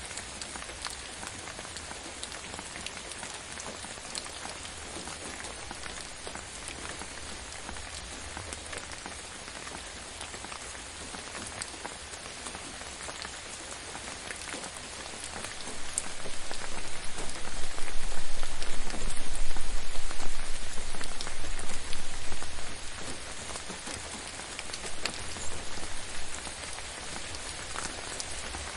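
Steady rain, with many individual drops striking a surface. About halfway through, it swells much louder for several seconds with a deep rumble underneath, then settles back, with a smaller surge shortly after.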